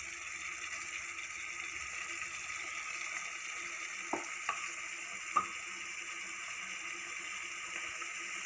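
Tomato, onion, garlic and ginger masala sizzling steadily in hot mustard oil in a pan. Three light taps of the spatula against the pan come between about four and five and a half seconds in.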